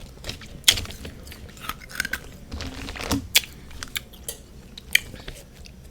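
Mouth biting and chewing refrozen freezer frost, with a few sharp, crisp crunches and softer chewing in between.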